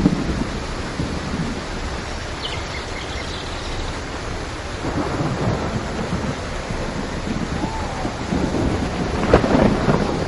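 Steady rainfall with rolling thunder rumbling underneath, swelling about halfway through and again near the end, with a sharper thunder crack about nine seconds in.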